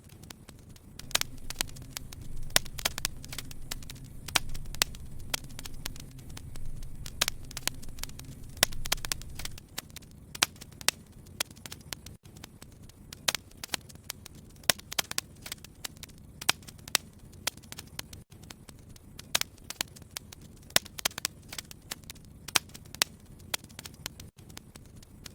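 Wood fire crackling in a fireplace, with frequent sharp pops and snaps at uneven intervals. A low rumble underlies the crackling for the first nine seconds or so, then stops suddenly.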